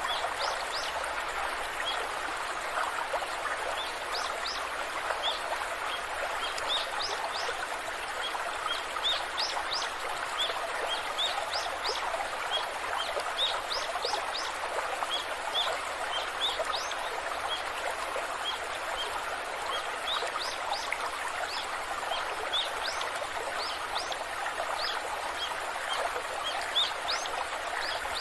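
Waterfall: a steady rush of cascading water. Small birds chirp over it throughout in short, quick rising notes.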